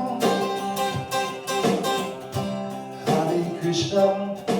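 Acoustic guitar strumming chords in a steady rhythm, about one stroke every two-thirds of a second, under a devotional song; a singing voice comes in on 'Krishna' near the end.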